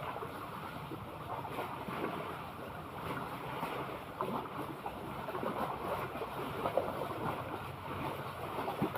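Seawater washing and lapping, with small irregular splashes, under steady wind rumble on the microphone.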